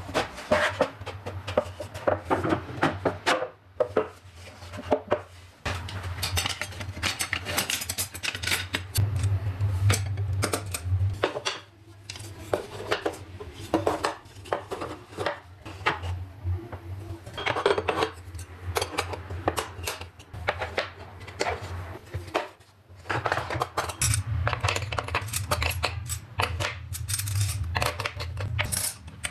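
Metal kitchen utensils and cutlery clinking and clattering as they are handled and sorted into a drawer, in repeated runs of quick clicks with short pauses between.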